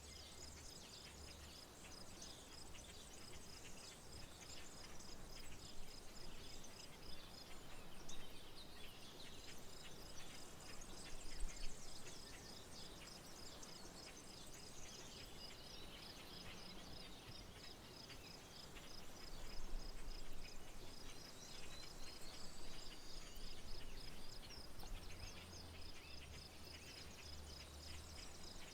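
Nature ambience: a steady, fast-pulsing high insect trill with birds chirping and calling over it, and a few low rumbles of wind on the microphone.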